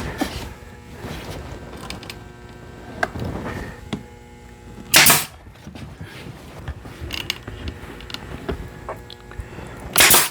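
Nail gun firing twice, about five seconds apart, driving nails into cedar boards, with light knocks and clicks of the wood being handled in between.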